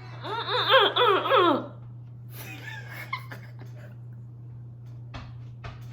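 A woman's high-pitched squealing giggle in quick rising-and-falling bursts for about a second and a half, then a softer vocal sound and a few light clicks near the end, over a steady low hum.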